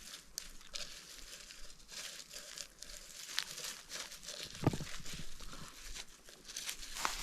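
Rustling and crunching of forest-floor leaf litter and soil being disturbed, with scattered sharp crackles. A louder crunch comes about four and a half seconds in.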